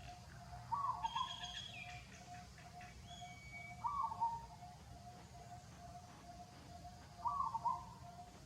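Birds calling: three short, slightly falling calls about three seconds apart, with a burst of higher chirps after the first. Throughout, a steady note repeats about twice a second.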